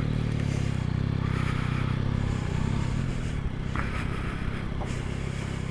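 Motorcycle engine running steadily at low revs, its pitch holding level, with brief hissing noise twice.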